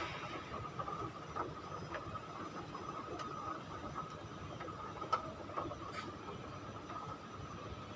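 Steady indoor hum with a constant high tone, and a few light clicks or taps now and then.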